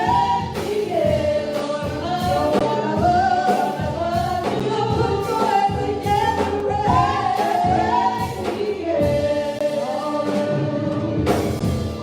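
Gospel music: a choir singing with band accompaniment and a steady drum beat, fading out at the very end.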